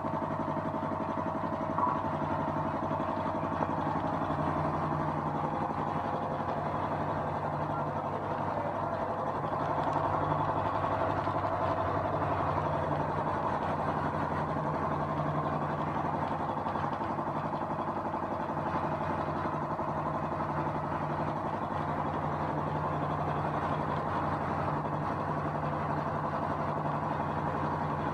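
An engine running steadily at idle, its speed and level unchanging.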